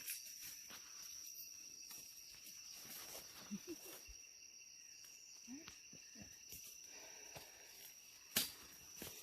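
Faint night chorus of rainforest insects: a steady high-pitched trilling, with a few short low chirps. A single sharp click comes about eight seconds in.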